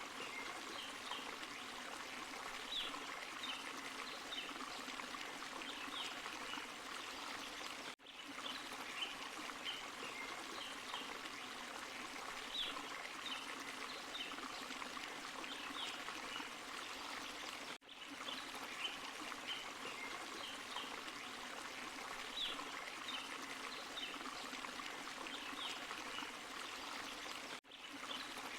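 Forest stream and small waterfall: water running and splashing steadily over rocks, with small bright splashes on top. The sound cuts out briefly three times, about ten seconds apart.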